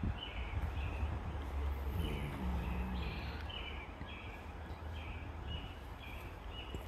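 A small bird singing the same short two-part high note over and over, about twice a second, over a low rumble of wind on the microphone.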